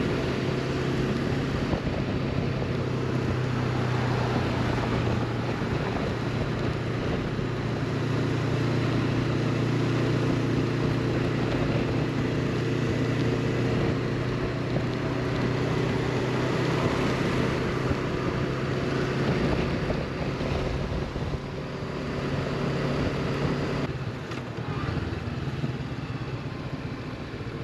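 Honda CB500X parallel-twin engine running at a steady cruise, under wind rushing over the helmet microphone. The engine note drops briefly about 24 seconds in.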